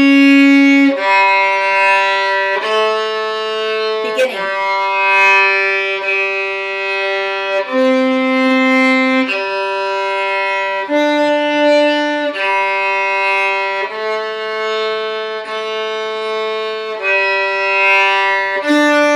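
Solo violin playing a slow exercise melody in held bowed notes, mostly half notes with a few shorter ones. The first note is a C sharp, and there is a quick slide in pitch about four seconds in.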